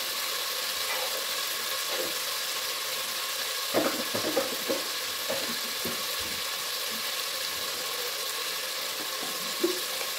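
Onion-and-tomato masala sizzling in oil in a pot on a gas stove: a steady hiss.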